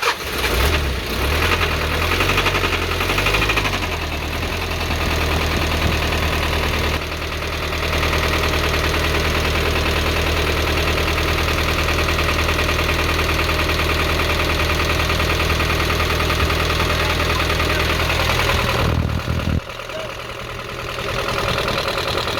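Mazda T3500 truck's diesel engine starting and running with a steady rhythmic knocking noise, which the mechanic calls very dangerous. The engine had run low on oil through heavy leaks, and the mechanic judges that the noise is not coming from the pistons.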